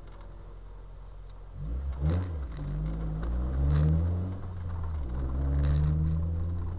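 Opel Kadett rally car's engine heard from inside the car: running quietly at first, then accelerating hard from about one and a half seconds in. The revs climb, drop back at a gear change a little after the middle, and climb again.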